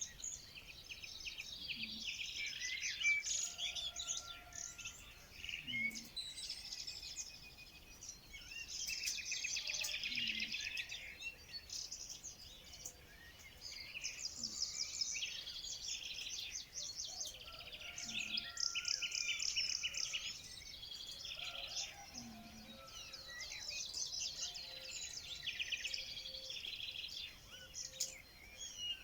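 Several birds singing and chirping at once: overlapping trills, rapid chatter and short whistled notes, with no break.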